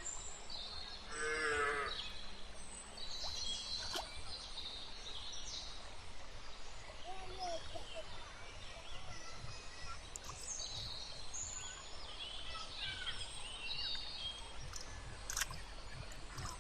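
Small birds chirping and twittering in many short high calls over a steady low rumble. About a second and a half in there is one louder, wavering call, and a couple of sharp clicks come later.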